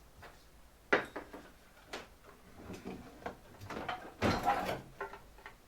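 Knocks and clatter from handling the machine and tools in a workshop: a sharp knock about a second in, another just before two seconds, smaller clatters, then a longer noisy rattle a little after four seconds.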